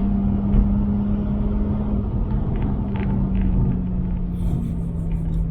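Mazda RX-8's twin-rotor Renesis rotary engine running hard at fairly steady revs, its note easing slightly lower in pitch, over a heavy low road rumble.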